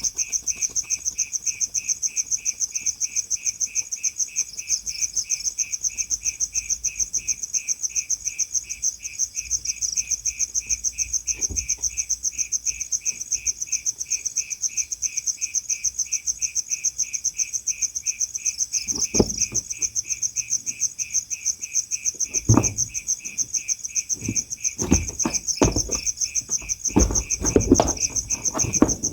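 A cricket chirping in a rapid, even pulse that never lets up. From about two-thirds of the way through, a series of knocks and bumps comes in over it.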